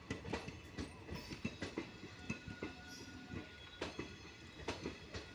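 Indian Railways passenger coaches rolling past, their wheels clicking and knocking irregularly over rail joints and points over a steady rumble. A faint thin high squeal comes in around the middle.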